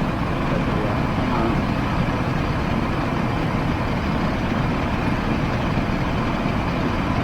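Dometic RV rooftop heat pump's blower fan running with a steady rushing noise, before the compressor is called for; the unit is tripping its breaker whenever the compressor tries to start.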